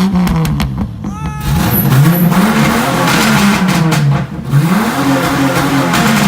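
Jeep Cherokee XJ engine revving through a loud aftermarket exhaust: the pitch climbs and falls back about four times in quick succession, with a loud rasping rush from the pipe on the bigger revs.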